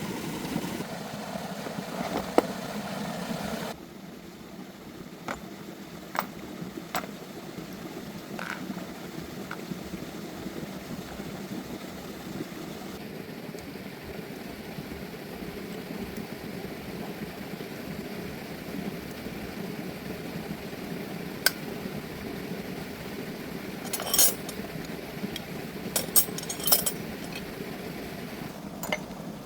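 Metal parts and tools clinking and tapping now and then over a steady low hum, with a cluster of quick clinks near the end.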